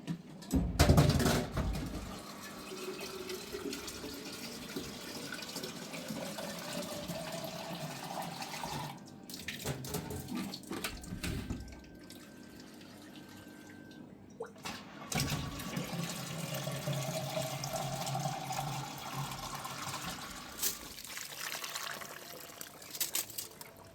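A loud knock about a second in, then water running from a tap into a container twice, each time for several seconds with a note that rises steadily until the water stops.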